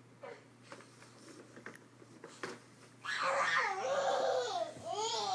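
A baby squealing and babbling loudly in a high, wavering voice, starting about three seconds in, after a few faint taps.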